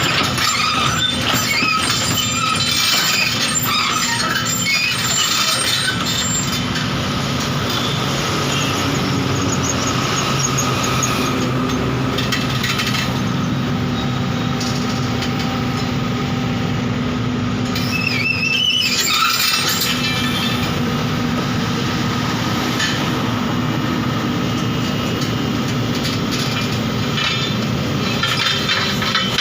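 JCB backhoe loader running steadily while driving itself down off a truck, with high metallic squealing that peaks about two-thirds of the way through.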